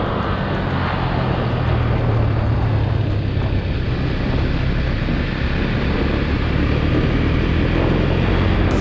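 Husqvarna Svartpilen 401's single-cylinder engine running at a steady speed on the move, with wind rushing over the microphone.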